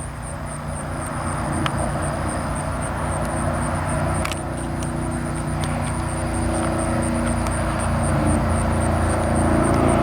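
Distant engine drone, a steady low hum that grows slowly louder.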